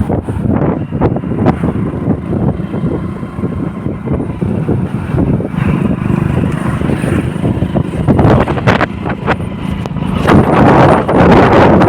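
Motorcycle engine running on the road, with wind rushing over the microphone; the rush grows louder over the last couple of seconds.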